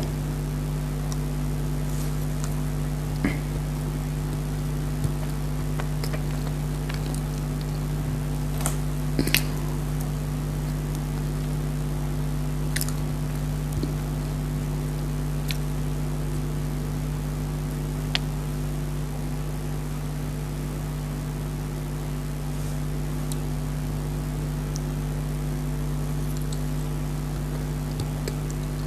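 Person eating chocolate dry fruit cake: a few scattered short, sharp clicks and mouth sounds, over a steady low hum.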